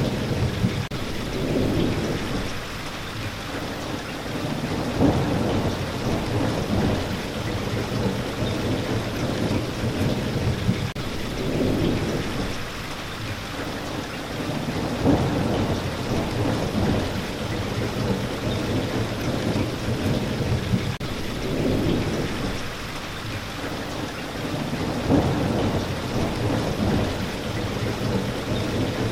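Steady heavy rain with low rolling thunder, the rumble swelling and fading every few seconds.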